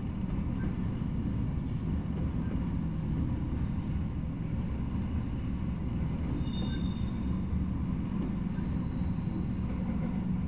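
Freight train of autorack cars rolling past: a steady low rumble of steel wheels on the rails. A brief, faint high-pitched tone comes in about six and a half seconds in.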